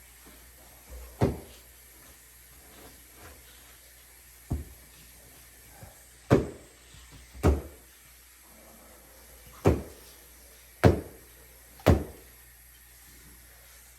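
A series of sharp knocks or bumps, seven in all at uneven intervals, each dying away quickly, over a low steady background hum.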